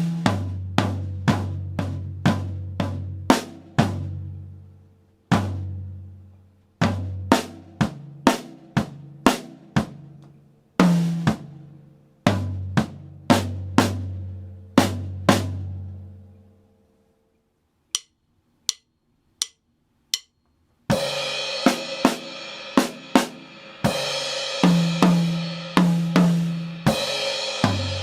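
Drum kit playing a snare-and-tom exercise at 60 bpm, the toms ringing with low pitched tones. The playing stops, four evenly spaced clicks count in, and the kit restarts at 80 bpm with hi-hat and cymbal wash over snare, toms and bass drum.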